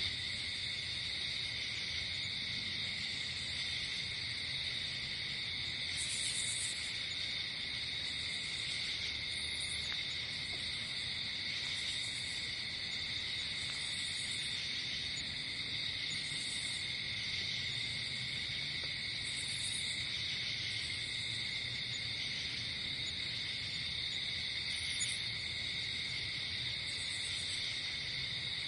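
Night insect chorus, with crickets trilling steadily in several overlapping high pitches. A higher, brief chirping burst repeats about every two seconds over the steady drone.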